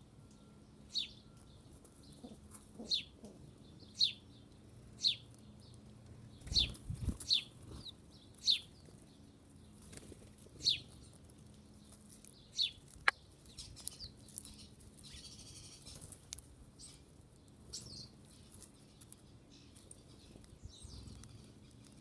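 A small bird repeating short, sharp, high chirps about once a second, with a low thump near the middle.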